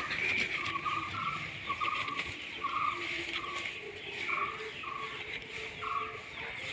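Birds calling: one short, buzzy note repeated about every half second over a steady background chorus, with other fainter calls lower down.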